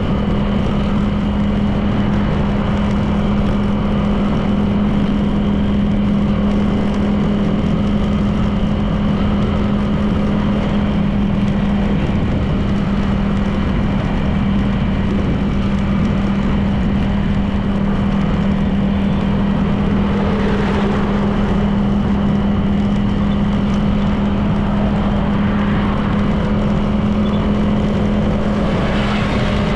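Honda PCX 160 scooter's single-cylinder engine running at a steady cruising speed, with road and wind noise; a brief extra swell of sound comes about two-thirds through and again near the end.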